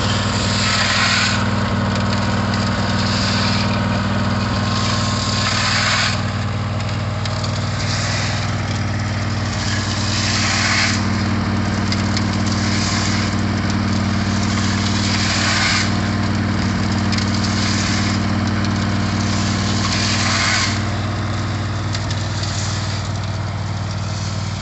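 DR walk-behind mower's 17 horsepower Kawasaki engine running steadily in gear, with gravel and water tumbling inside a motorcycle gas tank strapped to its turning wheel: a rushing rattle that swells every two to three seconds as the tank rolls over.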